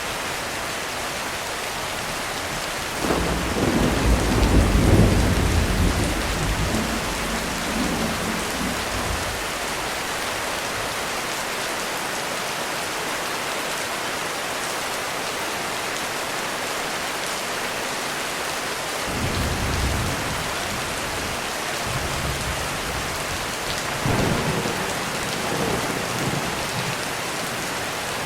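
Heavy rain falling steadily with a thunderstorm: a loud roll of thunder builds about three seconds in and rumbles away over several seconds, and quieter rolls of thunder come again near the end.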